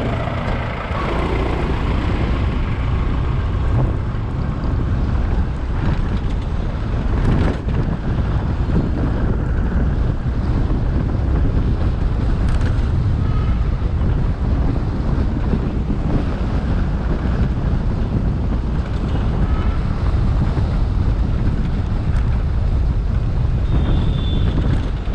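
Steady wind rumble on the microphone of an action camera riding on a moving Suzuki Access 125 scooter, with road and traffic noise underneath.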